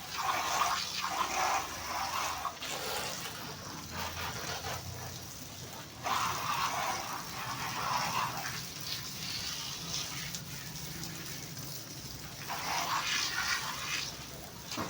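Water spraying and splashing on a truck as it is washed, coming in spells of a second or two, with the heaviest spells about six seconds in and near the end.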